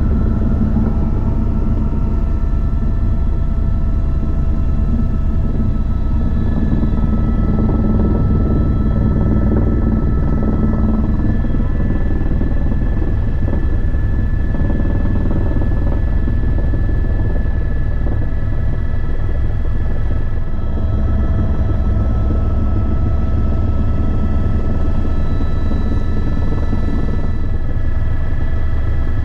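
Helicopter running steadily and loudly: a low rotor and engine rumble with a steady turbine whine above it.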